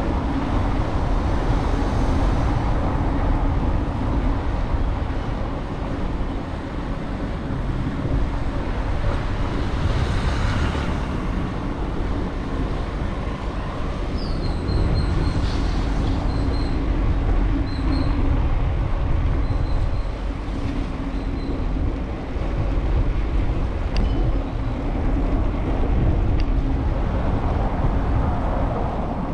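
Street traffic noise mixed with a steady low wind rumble on the microphone of a camera riding on a moving bicycle. A run of short, high chirps comes about halfway through.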